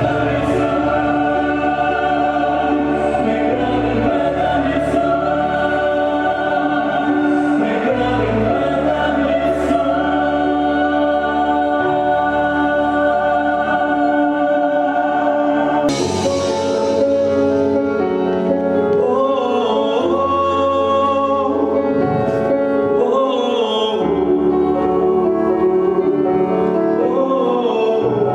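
Music with choral singing: long sustained chords over a slow-changing bass. A cymbal-like crash comes about sixteen seconds in, after which the sung line moves more.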